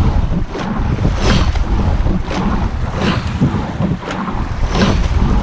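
Rowing shell under way at race pace, heard from inside the boat: oars catching and driving through the water in an even rhythm of about one stroke every 1.8 seconds, with wind buffeting the microphone.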